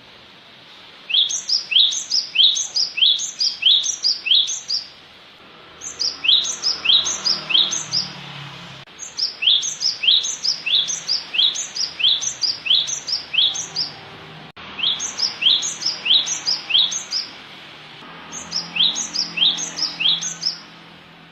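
Cinereous tit (gelatik batu) song: a two-part note, a quick rising sweep then a higher squeak, repeated about twice a second in five bouts with short pauses between them.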